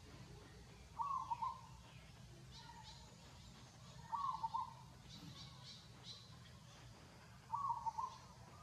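An animal call repeated three times, about three seconds apart, each a short stuttering note of a few quick pulses, over faint high chirping in the background.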